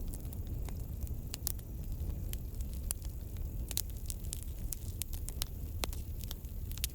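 Wood campfire crackling: frequent, irregular sharp pops and snaps over a low, steady rumble of burning.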